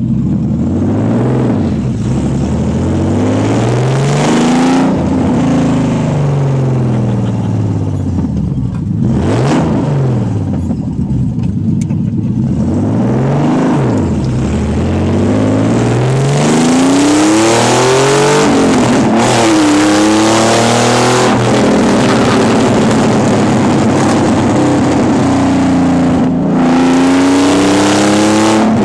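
Naturally aspirated Nissan 300ZX (Z32) VG30DE V6 running with no exhaust, open and loud. The revs climb and drop repeatedly, with several falls in pitch in the first half and busier, louder revving from about halfway on.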